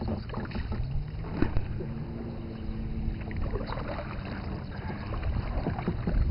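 A motorboat engine running on the lake, with a hum that climbs in pitch over the first couple of seconds and then holds steady, over a low rumble and a few light knocks.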